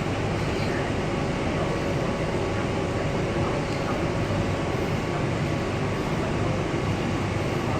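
Steady noise of an MTR Kwun Tong Line train, with a faint steady hum in it.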